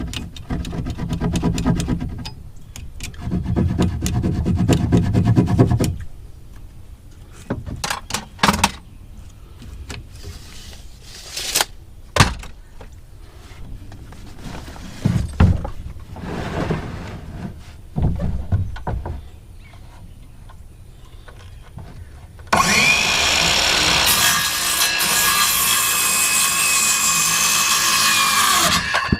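Tool work on sheet-metal building panels: irregular scraping, rubbing and knocks with a few sharp clicks, then a power tool runs steadily with a whine for about six seconds near the end.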